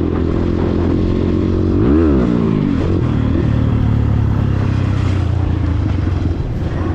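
Dirt bike engine running, with one quick rev that rises and falls about two seconds in before it settles back to a steady lower pitch.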